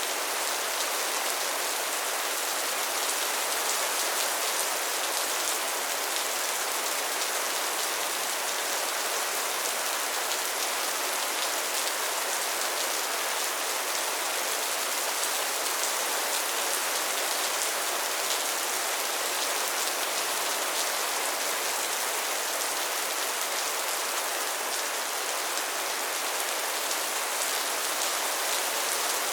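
Steady rainfall, with a dense hiss and fine crackle of drops hitting a surface.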